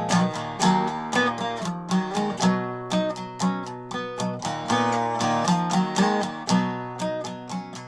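Guitar picked and strummed in a quick, steady rhythm of bright plucked notes over a repeating low note: an instrumental break in a heavy-skiffle song.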